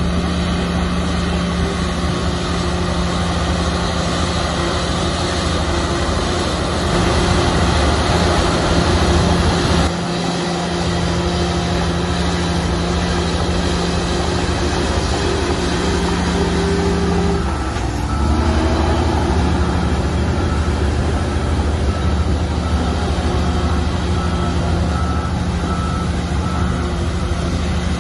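Heavy diesel engine of a Komatsu bulldozer running steadily under load. It is louder about seven to ten seconds in and briefly drops in pitch around eighteen seconds in. A faint, repeated short beeping runs through the second half.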